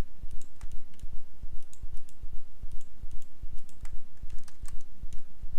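Scattered sharp clicks from a computer mouse and keyboard, over a low rumble that pulses about three times a second.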